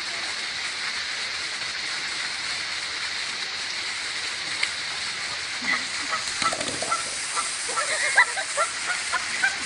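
A goose honking in short, repeated calls that begin about halfway through, over a steady hiss.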